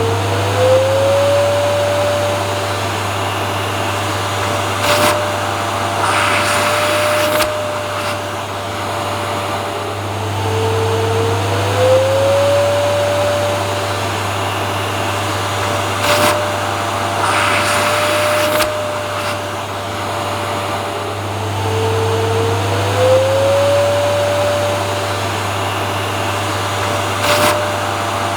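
Vacuum cleaner running steadily with a low hum and a motor whine. The whine slides up in pitch and then holds, and there is a brief knock with a short swell of hiss. The same pattern comes back about every eleven seconds.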